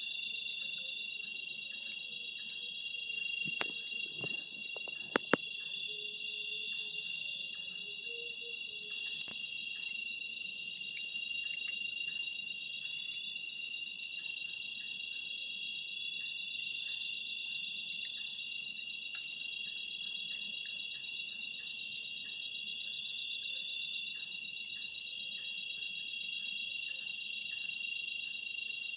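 Dense chorus of night insects, crickets or katydids, ringing steadily at several high pitches at once. A couple of sharp clicks come about four to five seconds in.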